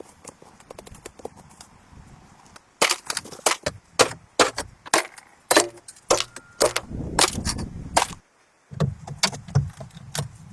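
A run of sharp, irregular knocks of something striking wood, a few a second, starting about three seconds in. A low rumble runs under them in the later part.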